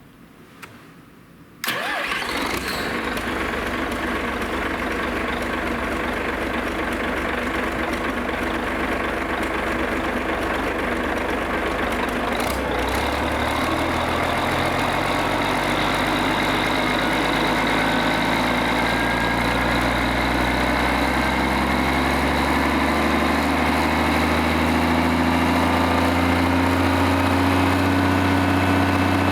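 Mitsubishi S6B3F-MTK six-cylinder marine diesel engine starting suddenly almost two seconds in and settling into a steady run. About twelve seconds in its note changes, and its speed then climbs slowly.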